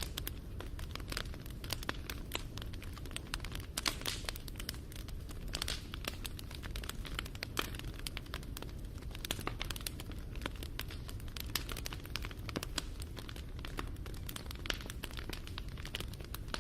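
Wood fire burning: a steady low rumble of flames with dense, irregular crackling and popping, with a louder cluster of pops about four seconds in.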